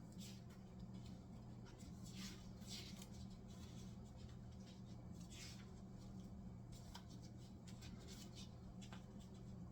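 Near silence: a low steady hum with faint, scattered rustling and scratching sounds, several of them in the first half.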